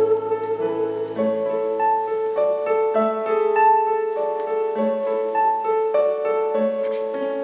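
A school choir finishes a held note, then a piano plays a short accompaniment interlude alone: held chords over a repeating bass note between sung phrases.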